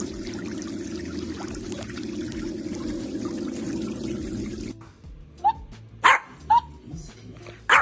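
Steady rush of water. Then, after a cut about two thirds through, a dog barks four times in quick succession.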